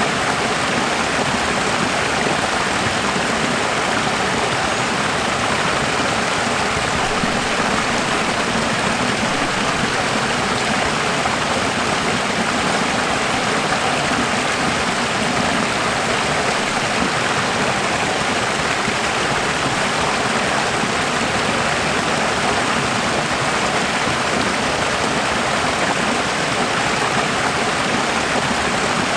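Running water, a steady, even rush like a stream flowing.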